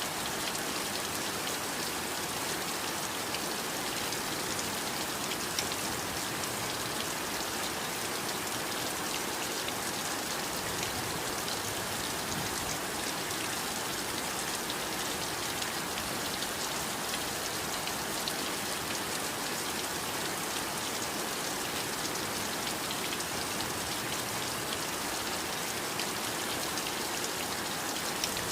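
Steady heavy rain falling, an even hiss with many small drop ticks and no pauses.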